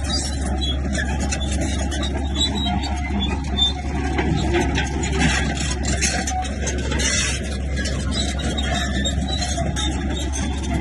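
Komatsu bulldozer's diesel engine running steadily under load, with the rattle and squeal of its steel tracks and rock scraping.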